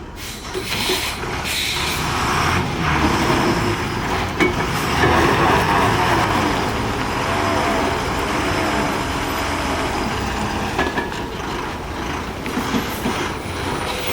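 Heavy truck engine running with road noise; the engine note rises and falls around the middle.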